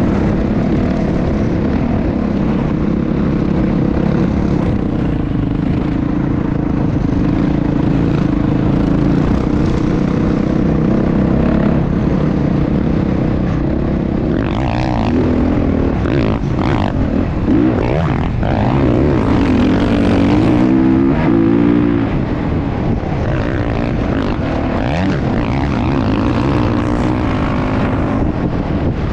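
Motocross bike engine running continuously, its pitch wavering and rising and falling in the middle as the revs change.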